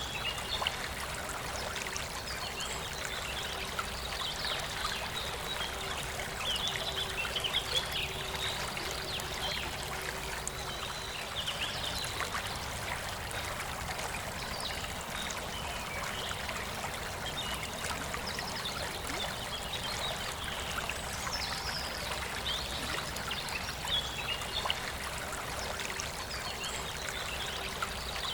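A forest river flowing and trickling steadily, with birds chirping in short bursts every few seconds.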